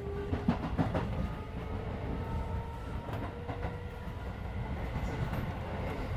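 Keisei 3400-series electric train running, heard from inside the passenger car: a steady low rumble with wheels knocking over rail joints, a few sharp clacks about half a second and a second in, and a faint steady whine above.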